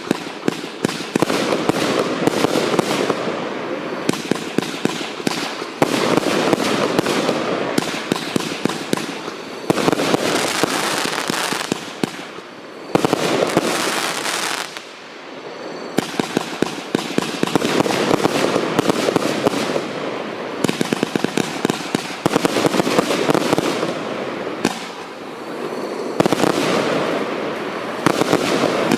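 A 135-shot compound firework barrage firing: rapid, dense launches and crackling bursts in continuous waves of a few seconds each, with brief lulls between volleys.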